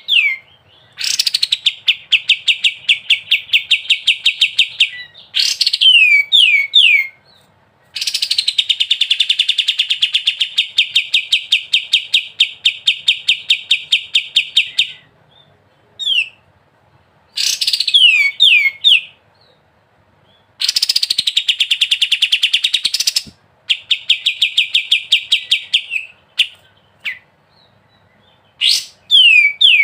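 A kapas tembak songbird singing in its 'ngebren' style. It gives long, rapid, pulsed trills lasting several seconds each, the longest about seven seconds. These alternate with short runs of three or four falling whistled notes.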